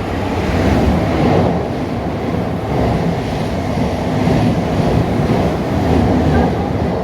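A train running close past the platform: a loud, steady rumble of wheels on rail that swells in over the first second and holds.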